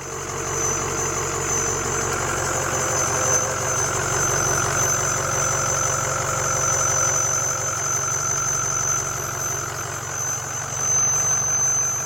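Ford 6.0 Power Stroke V8 diesel engine running with a steady high-pitched squeal over it. The squeal comes from an exhaust leak ahead of the turbo, a cracked exhaust Y-pipe.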